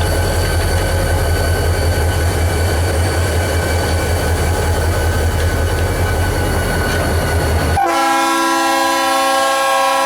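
Diesel freight train running past with a loud, steady low rumble. About eight seconds in the rumble cuts off abruptly and a locomotive's multi-chime air horn blows a steady chord.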